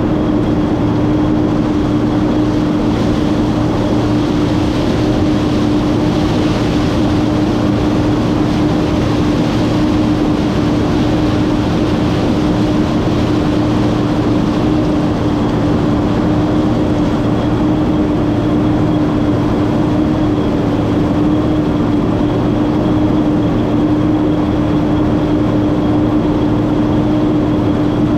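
Massey Ferguson 9690 combine running steadily: a constant loud drone with a strong steady hum and a faint high whine above it.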